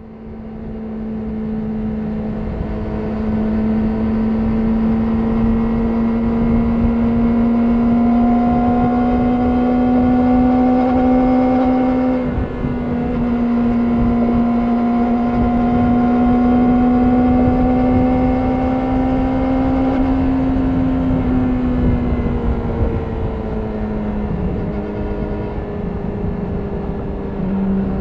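Yamaha R6's inline-four engine through an Akrapovic slip-on exhaust, pulling at steady throttle with its note slowly rising, a short dip in the note about twelve seconds in, then easing off and dropping in pitch in the last several seconds. Low wind rush sits under the engine.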